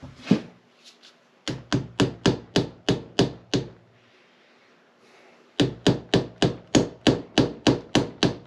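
Hammer blows on engine parts in quick runs of about four a second. There is a single blow near the start, then a run of about ten, a short pause, and another run of a dozen or so.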